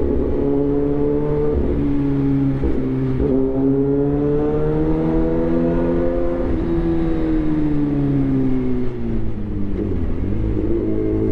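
Suzuki GSX-R1000 inline-four running through an aftermarket replica SC Project exhaust. Its pitch climbs steadily for a few seconds, sinks, then climbs again near the end, with short breaks in the note about one and a half and three seconds in.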